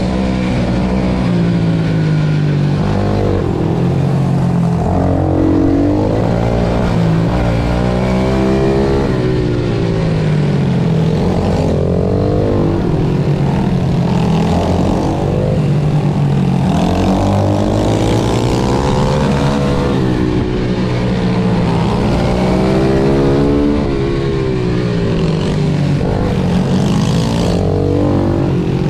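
Pit bike engine at racing speed, its pitch climbing and dropping again every few seconds as the rider accelerates and backs off through the corners.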